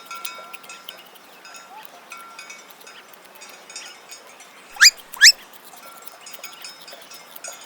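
Two short, sharp rising squeaks about half a second apart, a little past halfway, given as a rabbit's sound. They sit over a faint, twinkling, chime-like background.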